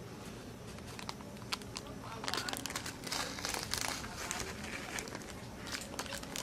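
Crinkling, crackling rustle: a dense run of sharp crackles about two to four and a half seconds in, with scattered crackles either side.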